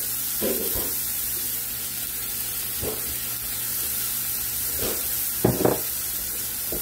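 Diced onion and red pepper sizzling in hot olive oil in a cast-iron skillet, a steady hiss. A few short bumps come through it, the loudest a double one near the end.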